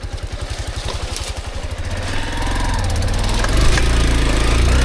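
Dirt bike engine idling with fast, even pulses, then revved up and getting louder from about two seconds in as the bike gets going.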